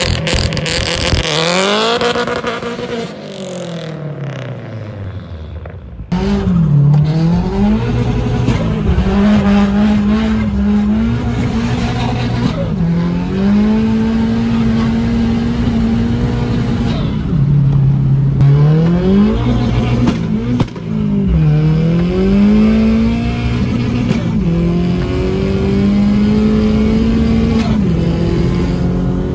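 Opel Astra coupe's tuned Z20LET 2.0 turbo four-cylinder with forged internals and a TD05-20G turbo. It is first revved up and let fall back at the exhaust, then, heard from inside the cabin, it pulls along under way, its note dipping and climbing back several times as it changes gear.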